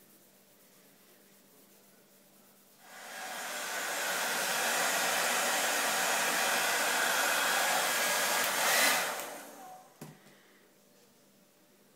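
A steady rush of blown air that starts about three seconds in, runs for about six seconds, tails off, and is followed by a single sharp click.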